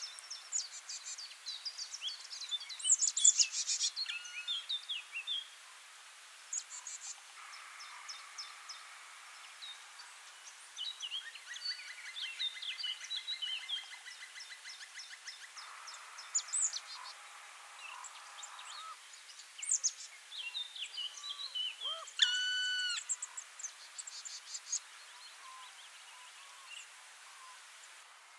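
Several birds calling and chirping, with quick high chirps and trills overlapping throughout. A rapid rattling trill comes around the middle, and a louder call of several stacked notes comes about three-quarters through.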